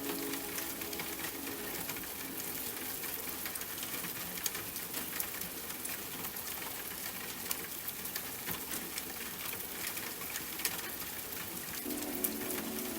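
Steady rain falling, with many sharp ticks of single drops through it. Soft sustained music tones come in near the end.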